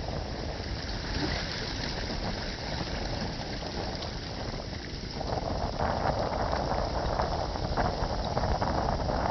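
Sea water rushing along a sailboat's hull under way, with wind on the microphone; the rush of water swells louder about five seconds in.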